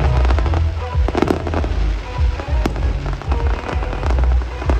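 Fireworks going off in quick succession: deep booms and sharp crackling bursts, with music playing alongside.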